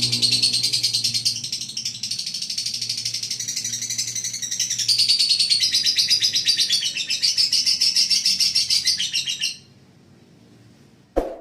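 A lovebird singing one long, unbroken burst of rapid, high-pitched chattering trills that stops abruptly. A faint low hum lies under the first half, and a single sharp click comes near the end.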